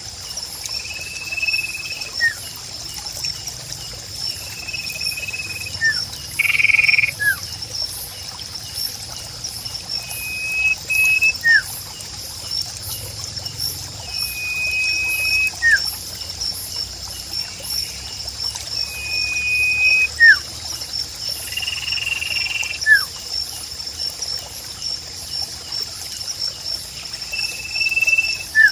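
A sirpu bird calling over and over: a level high whistle followed by a short falling note, repeated about every four to five seconds. Behind it, a steady high chorus of insects or frogs and trickling water.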